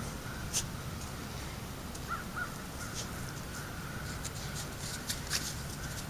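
Outdoor ambience picked up by a trail camera's microphone: a steady hiss with a faint constant hum, broken by a handful of short sharp clicks and two faint chirps about two seconds in.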